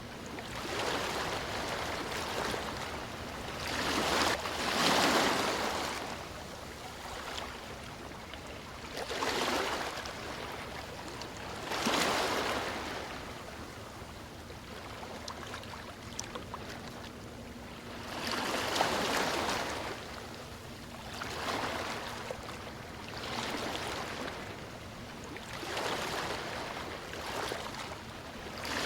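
Sea waves breaking on a beach, each wave swelling into a surge of rushing water and washing back, a new one every few seconds.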